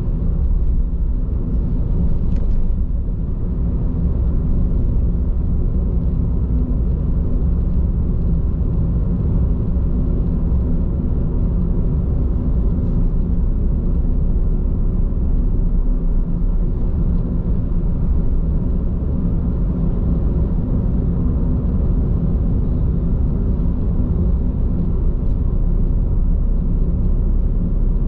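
Steady low road rumble of a car cruising, heard inside the cabin: tyre and road noise from Bridgestone Regno tyres. A faint click about two and a half seconds in.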